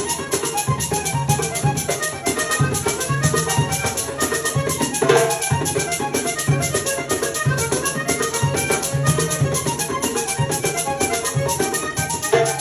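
Vallenato music: a button accordion plays a fast melody over the caja vallenata drum and a quick, even percussion pattern, with a sharp accent about five seconds in.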